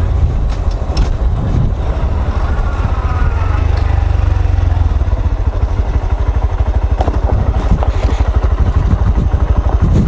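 Honda Grom's single-cylinder engine running at low speed, its exhaust pulsing evenly, with a few light clicks about seven seconds in.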